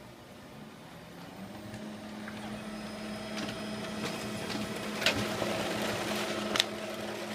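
Office printer running as it prints documents: a steady mechanical hum that builds up over the first couple of seconds, with a few sharp clicks near the end.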